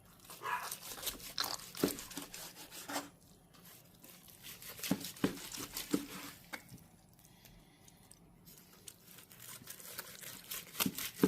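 Food preparation on a cutting board: scattered light knocks and clicks with some crinkling and crunching, coming in irregular clusters.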